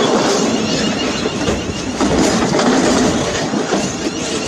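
Electric multiple unit train running past along the platform, a steady rush of wheels and air with light clicking from the rail joints, fading near the end as the last coach goes by.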